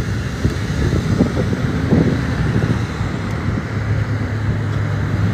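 Street traffic noise with a steady low engine hum that grows stronger in the second half, and wind on the microphone.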